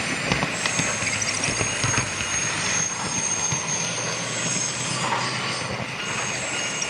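Model train running on a layout track: wheels rattling and clicking over the rail joints, with a steady high whine, and train running sounds played from an onboard sound car.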